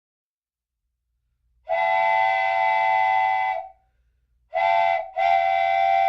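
Steam locomotive chime whistle blowing several tones together: one long blast about two seconds in, then a short blast and a longer one near the end.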